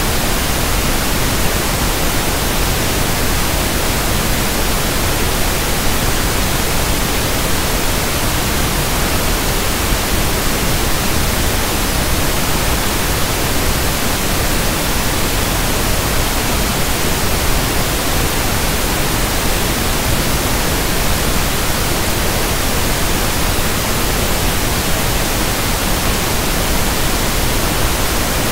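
Steady electronically generated pink noise (1/f noise): an even, unchanging hiss across the whole range of pitch, without any events or changes.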